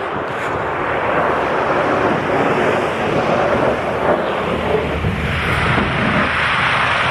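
Steady loud rushing noise of storm wind blowing across the microphone outdoors in a snowstorm.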